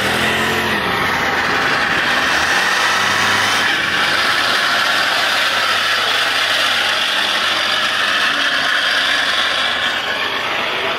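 Vehicle engines running. One engine's pitch drops away in the first second, over a steady, loud background din.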